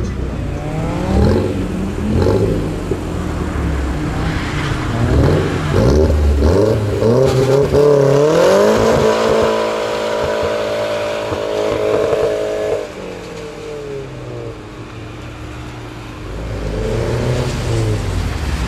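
Volkswagen New Beetle's engine revving as the car accelerates away: the revs climb over a few seconds, hold high for about four seconds, then fall away, with another short rise in revs near the end.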